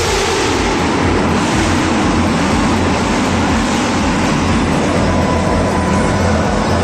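Loud motor vehicle engine running with a heavy, steady rumble; its pitch falls during the first second.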